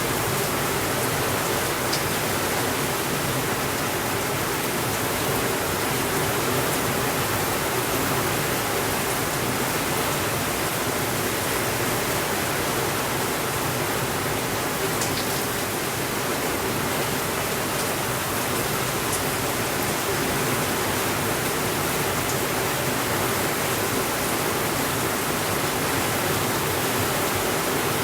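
Steady rainfall: an even, dense hiss that never lets up, with a few faint ticks.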